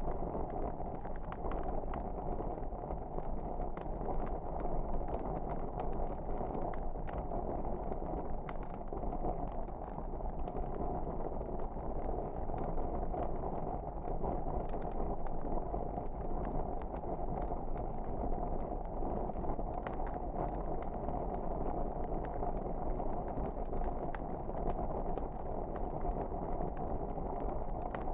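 Fireplace fire burning: a steady low rush of flames with many small, irregular crackles and pops from the burning logs.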